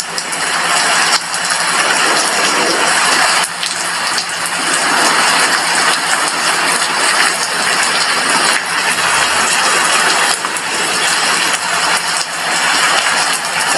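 Steady heavy rain striking a glass window, an even, dense hiss of drops with a faint low hum underneath.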